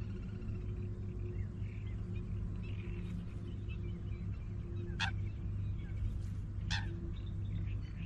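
Small birds chirping and twittering in short phrases, with two brief, sharp high sounds about five seconds in and again a second and a half later, over a steady low hum.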